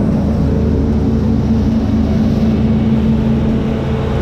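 New Holland CX5090 combine harvester running steadily while harvesting wheat: a constant, even engine drone that stays at one pitch.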